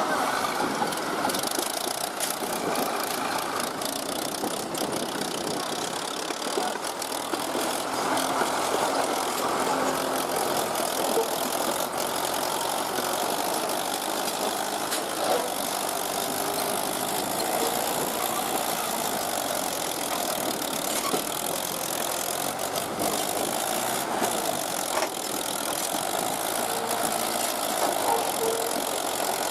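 A heavy diesel engine running steadily.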